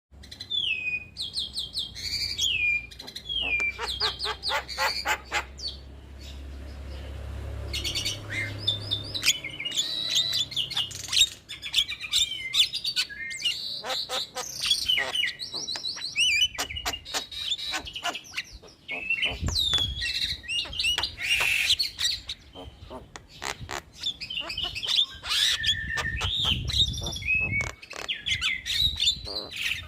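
Javan myna (jalak kebo) singing a varied chattering song: gliding whistles, squeaky notes and fast clicking rattles, strung together with brief pauses.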